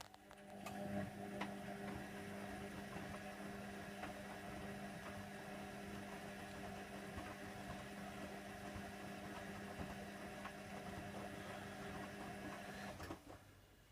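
Hoover Nextra HNWL7146 washer dryer running a motor with a steady hum for about 13 seconds, then stopping abruptly near the end.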